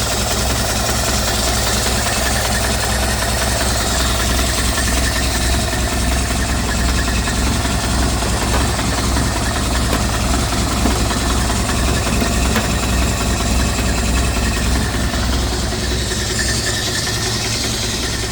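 1928 Ford Model A four-cylinder engine with a four-port overhead-valve head conversion, idling steadily shortly after a cold start.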